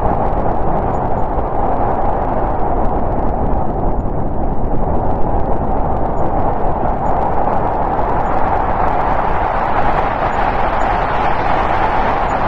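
Snowstorm wind blowing steadily, a hiss-like rush strongest in the middle of the range, with slight swells in strength.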